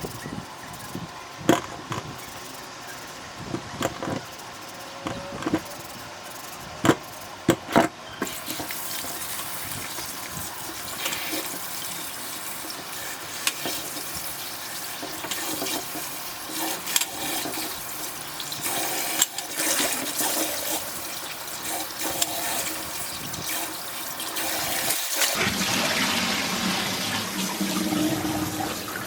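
A few separate clattering knocks, then from about eight seconds in a steady stream of tap water running into a sink.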